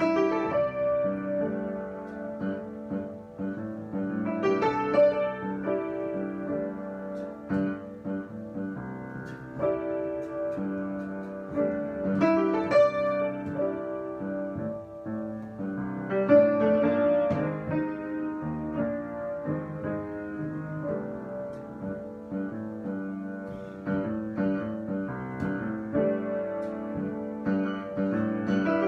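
Solo piano improvisation, many notes played freely with chords and phrases that swell and fall back.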